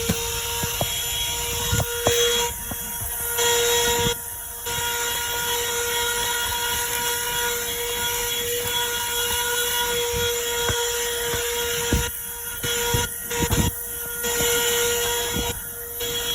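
WORX portable car vacuum running with a steady whine over rushing air as it cleans car carpet. The airflow sound dips for short spells several times.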